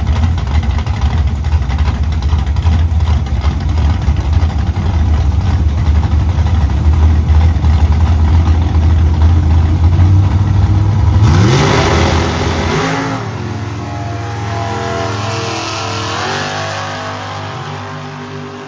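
Drag racing cars rumbling loudly at the starting line, then launching: about eleven seconds in, the engine pitch climbs sharply, then climbs again in steps through the gear changes as the cars run off down the strip and fade.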